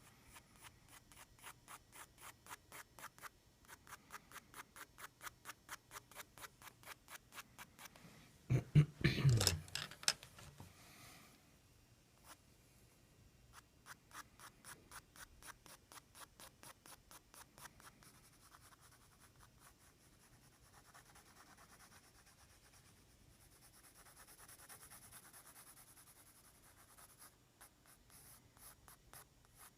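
Pencil strokes scratching on paper, hatching back and forth at about four strokes a second in runs with short pauses. A loud knock and rustle, like the paper or drawing board being handled, comes about nine seconds in.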